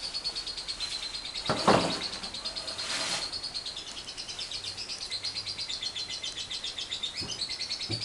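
Lovebird giving its long ngekek, a rapid unbroken high-pitched trill. Louder, harsher bird calls break in twice, about a second and a half in and about three seconds in.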